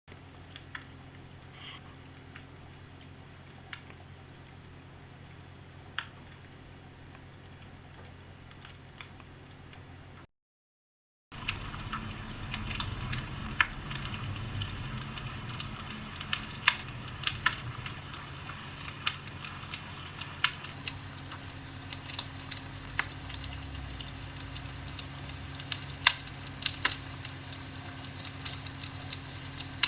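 Log-fire crackling played from a fireplace-sound app on a phone set inside the fireplace: scattered sharp pops and snaps over a steady low hum. It cuts out for about a second a third of the way through, then comes back louder with more frequent pops.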